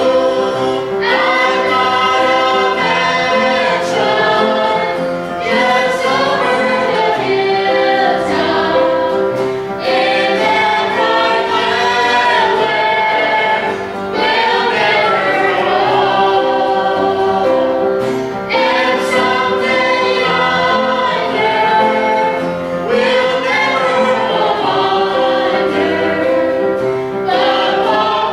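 Church choir singing a gospel song, several voices together holding sustained notes over a steady accompaniment.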